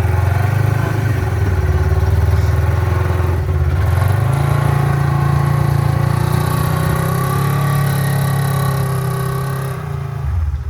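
A vehicle engine running steadily with a strong low hum. It rises in pitch about four seconds in and cuts off near the end.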